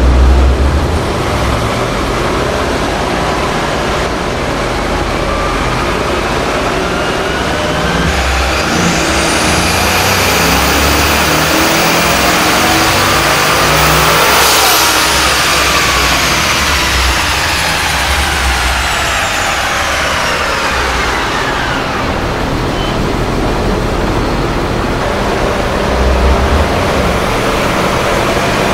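Twin-turbocharged 5.3L L83 V8 of a 2016 Chevrolet Tahoe making a full-throttle pull on a chassis dyno. The engine note and a high whine climb for about seven seconds to a peak, then fall away as the engine winds back down.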